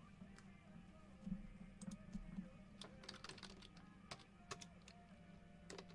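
Faint typing on a computer keyboard: a scattered run of quick key clicks starting about two seconds in.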